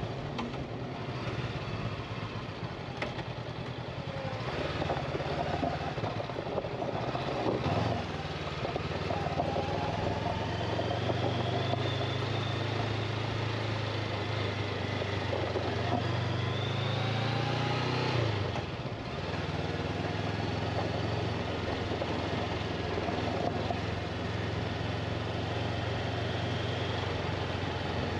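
Honda motorcycle engine running under way, over a steady rushing noise. The engine pitch climbs slowly for about eight seconds and then drops sharply about two-thirds of the way through.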